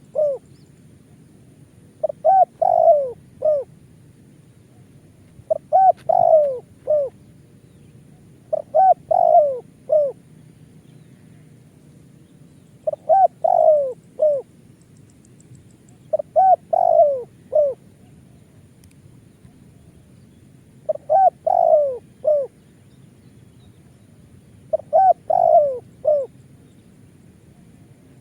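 Spotted dove cooing: a short phrase of three or four notes, repeated seven times at an even pace, about one phrase every four seconds.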